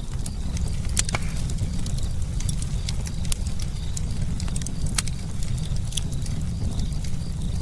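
Campfire crackling: irregular sharp pops and snaps of burning wood, a few louder ones about a second, three seconds, five seconds and six seconds in, over a steady low rumble of the fire.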